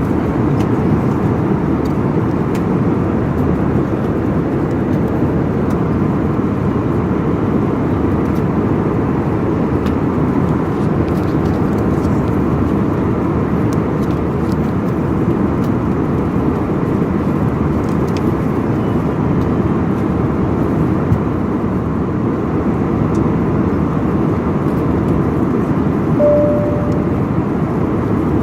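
Steady roar of an airliner cabin in flight: constant engine and airflow noise, mostly low in pitch. Near the end a short single tone sounds.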